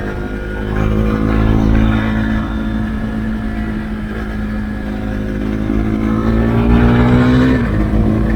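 Husqvarna Svartpilen 401's single-cylinder engine running under way through an Akrapovic exhaust with the dB-killer removed. Its note climbs slowly, then drops abruptly near the end.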